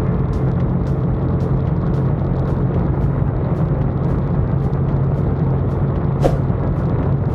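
Motorcycle engine running steadily while riding, a continuous low rumble.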